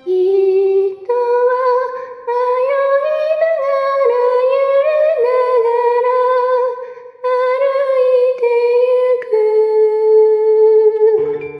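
A woman's voice humming a slow, wordless melody in long held notes, with short breaks between phrases. Instrumental music comes back in near the end.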